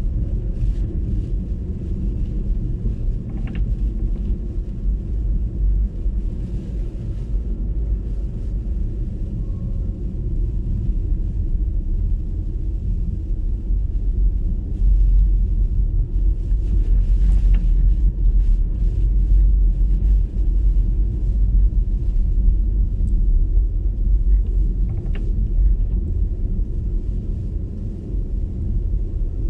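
Steady low rumble of tyre and road noise from an MG ZS EV electric car driving on a snow-covered road, with a few faint clicks.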